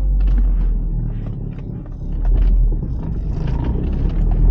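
Turbocharged Audi B5 engine running at low revs, a steady low rumble heard from inside the cabin while driving gently, with a few light clicks and rattles; it eases off briefly and picks up again about two seconds in.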